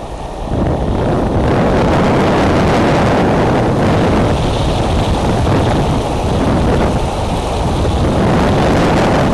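Extreme wind buffeting the eagle nest camera's microphone: a loud, gusting rush of wind noise, heaviest in the low rumble. It swells out of a brief lull about half a second in and stays loud, easing slightly now and then.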